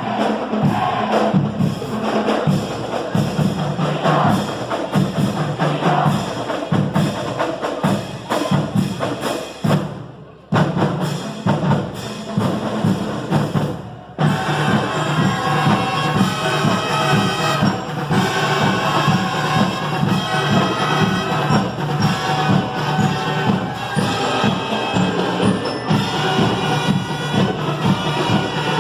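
School marching band playing, with drums. The music drops out briefly about ten seconds in and again near fourteen seconds, then resumes with long held notes.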